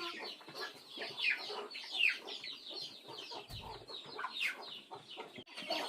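A flock of chickens clucking and cheeping, a dense run of short, high chirps that fall in pitch. A brief low thump comes about three and a half seconds in.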